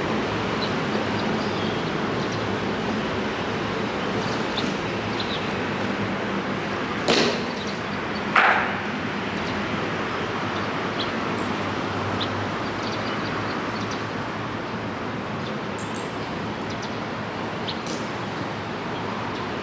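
Steady rain hiss with scattered faint ticks. About halfway through come two sharp knocks, a little over a second apart.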